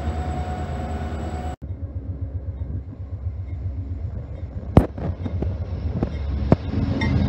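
Diesel locomotive humming steadily with a thin high whine, cut off abruptly about a second and a half in. Then the low rumble of an approaching Amtrak Downeaster passenger train builds toward the end, with two sharp clicks along the way.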